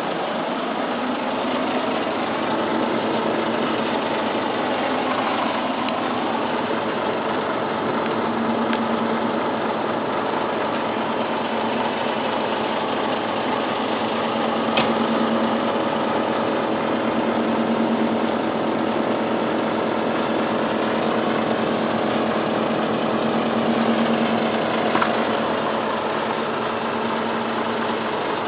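Haier SDB heat pump running: a steady machine hum and rush, with a low tone that swells and fades every few seconds and a couple of faint ticks.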